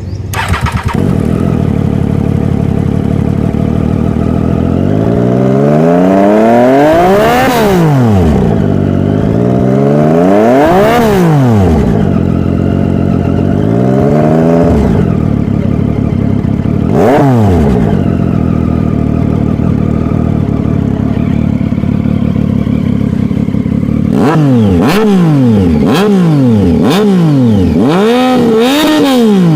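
Triumph Street Triple 675 inline three-cylinder engine heard through a custom three-pipe exhaust, idling and being revved. Four separate revs rise and fall over the first twenty seconds, then a rapid run of about six sharp throttle blips comes near the end.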